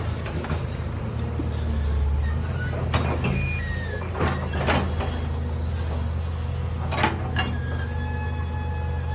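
Large excavator's diesel engine running steadily, with sharp metallic clanks about three, four and seven seconds in. Short high squeals come between the clanks, and a held one comes near the end.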